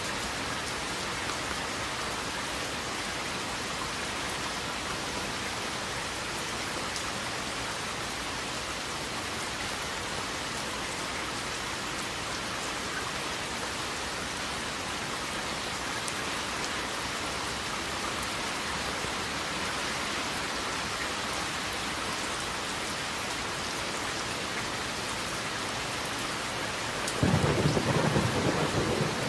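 Steady rain falling. Near the end a sudden low rumble of thunder comes in over it, louder than the rain.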